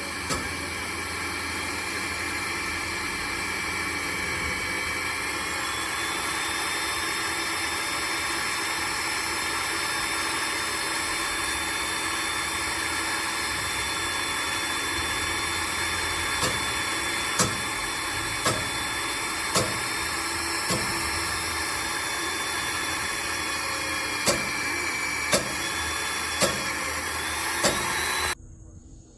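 A machine running steadily with a hiss and several steady tones. In the second half, about nine sharp taps come roughly a second apart. It cuts off suddenly near the end.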